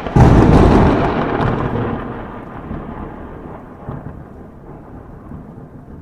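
A sudden loud boom that rumbles away slowly over several seconds, like a thunderclap.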